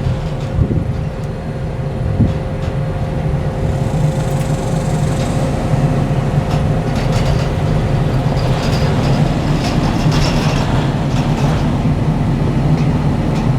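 Truck engine running steadily at low speed while towing a wheeled metal carport frame, with scattered rattles and clicks along the way.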